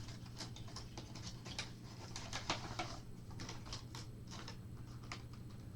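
Model train packaging being handled: a plastic insert and cardboard box giving irregular light clicks and crinkles, several a second.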